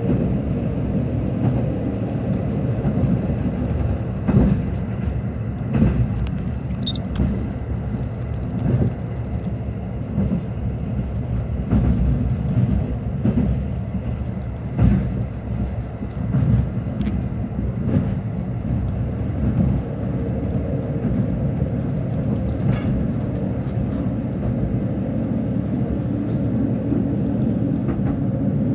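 KiHa 85 diesel express railcar running along the track, heard from inside the passenger car: a steady low rumble with occasional short knocks.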